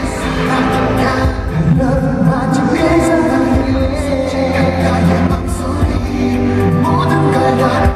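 Pop song performed live through a loud concert sound system, a male voice singing over a sustained low bass.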